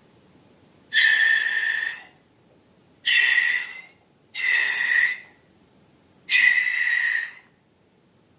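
Air squealing out of a balloon's stretched neck, four times, each squeal about a second long and holding a steady high pitch with a hissing edge.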